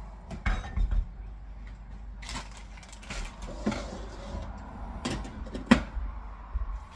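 Kitchen handling sounds: a handful of separate knocks and clatters of pots, lids and utensils, the sharpest near the end, over a low steady hum.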